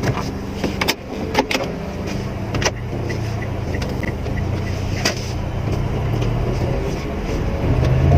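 Mitsubishi Mirage hatchback's engine running while the car is driven, a steady low hum with road noise, heard from inside the cabin. A few sharp clicks sound through it.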